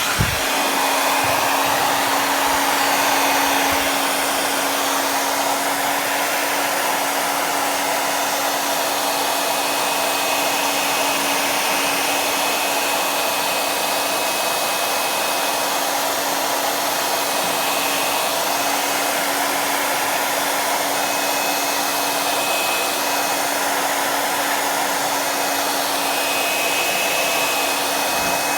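Hand-held hair dryer running steadily: an even blowing rush with a constant low motor hum.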